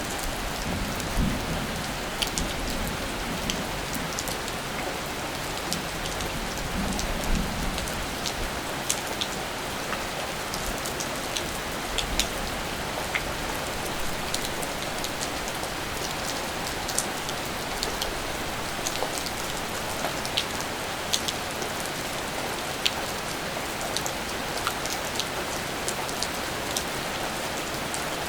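Steady rainfall hissing, with many single drops ticking sharply close to the microphone at irregular moments. A low rumble sits underneath for the first several seconds.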